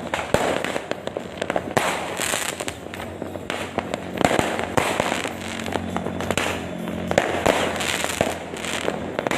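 Fireworks and firecrackers going off in quick succession: a dense run of sharp pops and bangs over steady crackling, with no let-up.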